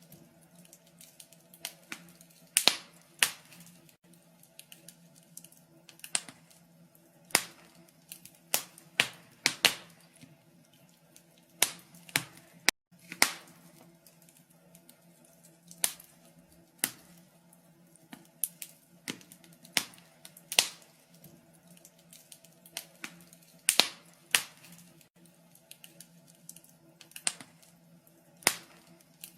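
Wood fire crackling in a fireplace: irregular sharp pops and snaps, a few each second, some much louder than others, over a faint steady hum.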